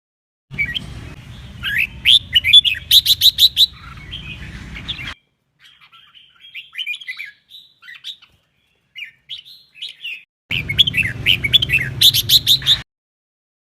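Red-whiskered bulbul singing: short whistled phrases mixed with rapid runs of sharp notes. The song comes in three stretches, the middle one quieter, broken by sudden complete silences where the recording is spliced.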